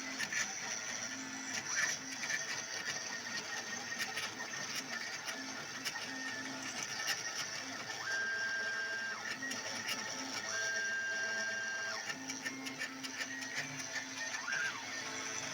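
Budget hobby CNC router carving: a steady high spindle whine runs under the stepper motors, which hum in short held tones that change pitch as the axes move. Two longer, higher steady tones come about 8 and 10.5 seconds in.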